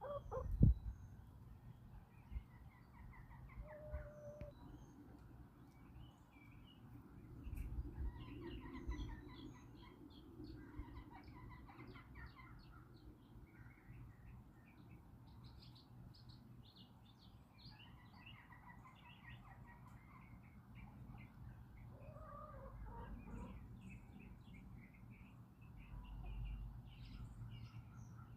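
Backyard chickens giving an occasional short call while small songbirds chirp and twitter throughout, over a low steady outdoor rumble. A single knock just under a second in is the loudest sound.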